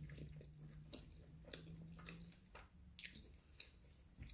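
Faint chewing of a mouthful of spaghetti: soft wet mouth smacks and clicks scattered through, with a low steady hum over the first two seconds.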